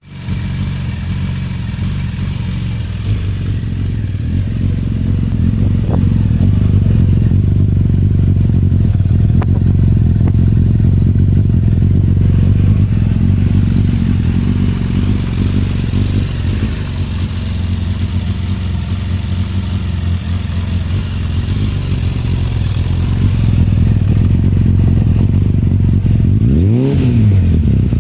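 Suzuki Bandit 600's inline-four engine idling steadily through an aftermarket Scorpion exhaust with a deep, throaty note. Near the end, it gives one quick throttle blip that rises and falls back to idle.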